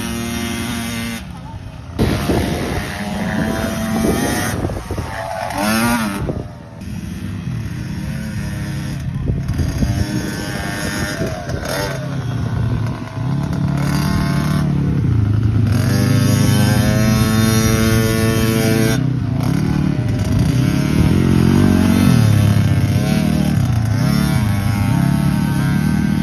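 Kids' KTM motocross bikes riding the track, their engines revving up and down as the riders accelerate and shift. The engine sound is louder and closer from about halfway through.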